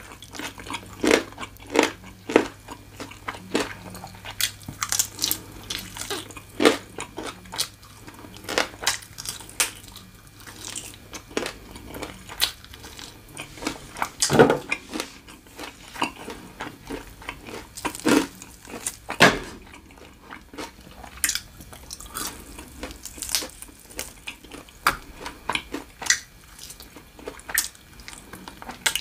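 Close-miked chewing: wet mouth sounds with irregular crunchy clicks, a person eating food.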